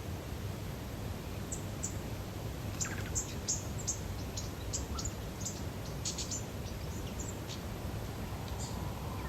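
Small birds chirping: many short, high chirps scattered through, busiest in the middle, over a steady low background rumble of outdoor ambience.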